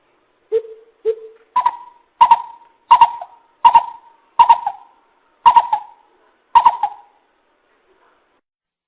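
Coucal (bìm bịp) calling: a series of nine hoots, the first two lower in pitch, the other seven higher and coming more slowly toward the end.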